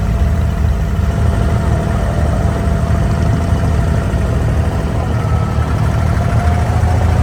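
Engine of an abra water taxi running steadily, a loud low rumble.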